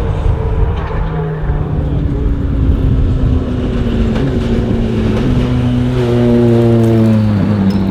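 Ford Fiesta WRC rally car driving at speed: a loud, steady rush of noise, with the engine's note coming through about halfway and growing louder as the car comes closer.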